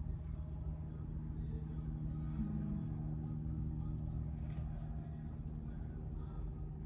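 Steady low hum of a car engine idling, heard inside the cabin, with a faint brief rustle about four and a half seconds in.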